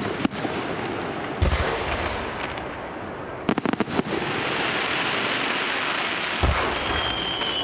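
Fireworks display: aerial shells bursting with deep booms twice, clusters of sharp crackling reports, and a steady crackling hiss of falling stars. A high whistle, sliding slightly down in pitch, starts near the end.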